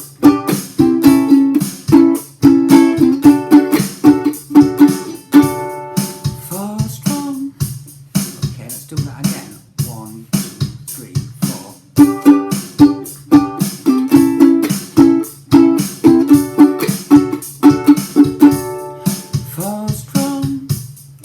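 Ukulele strummed in a down, up, chunk pattern, the strings muted with the heel of the hand on each stop, over a steady drum-machine beat. The chord phrase plays through twice.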